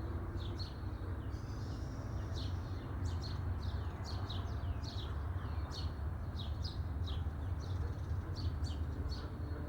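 Small birds chirping over and over in short, quick falling notes, two or three a second, over a low steady rumble.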